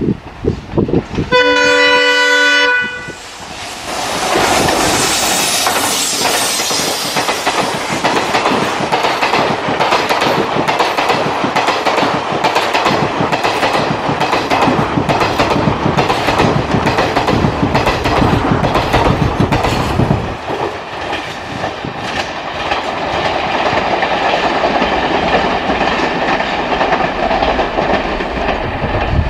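Indian Railways diesel locomotive sounding a horn blast of about a second and a half, followed by a loud express train passing close by, its wheels clicking rhythmically over the rail joints.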